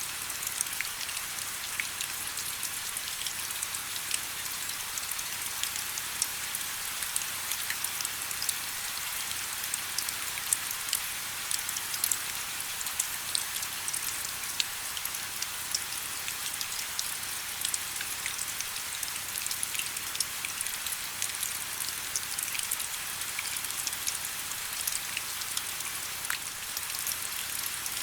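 Steady rain with many individual drops pattering, a continuous hiss with scattered sharp drop ticks.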